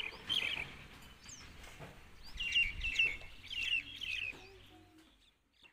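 Small birds chirping, a few quick high chirps at a time, in three or four short spells.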